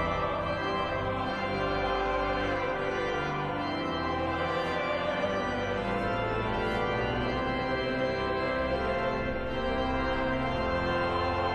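Organ music: full, sustained chords that shift slowly from one to the next at a steady level.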